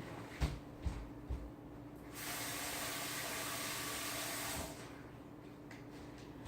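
A few light knocks, then water running steadily from a tap for about two and a half seconds before it is shut off.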